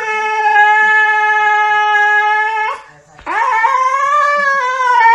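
A dog howling: a first long howl held steady for nearly three seconds, then a second one starting a little after three seconds in that wavers in pitch.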